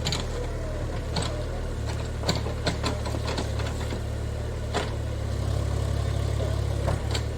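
Diesel engine of a JCB 30 Plus mini excavator running steadily, with scattered sharp knocks and clanks from the machine at work. The engine note grows stronger about five and a half seconds in, then eases just before the end.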